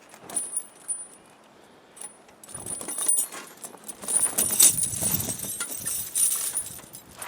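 Steel tractor ice chains being unhooked and pulled off a front tyre, the links clinking and jangling. A few light clinks at first, then a long stretch of loud rattling chain from about two and a half seconds in.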